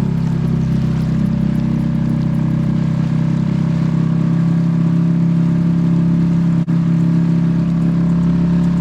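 Boat engine running steadily at constant speed, a low even drone with a brief dropout about two-thirds through.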